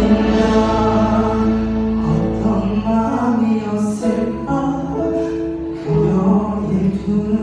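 A man singing a slow Korean CCM ballad with held notes over instrumental accompaniment.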